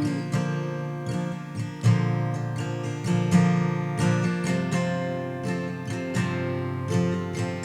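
Acoustic guitar playing alone, plucked and strummed chords at a steady pace, as an instrumental passage between sung lines.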